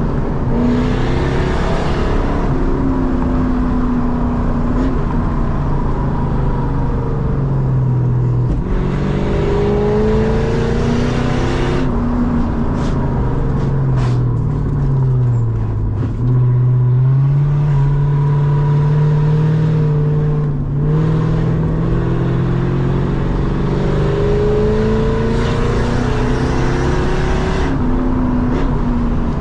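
Lexus SC400's 4.0-litre V8 running through a loud exhaust while being driven hard. The revs climb and fall repeatedly, dropping low about sixteen seconds in before pulling up again, with a brief break near twenty-one seconds like a gear change.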